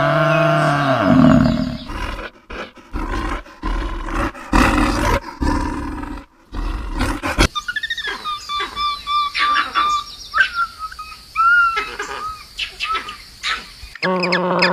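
Animal calls, changing from one animal to another. First a deep, pitched call that lasts about two seconds, then a stretch of noisy rustling and knocks, then a run of short, high calls from about seven and a half seconds on. A new pitched call starts near the end.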